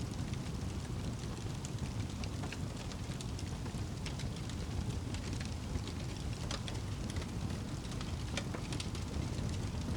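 Wood fire crackling: irregular small sharp pops and snaps scattered over a steady low rush of burning.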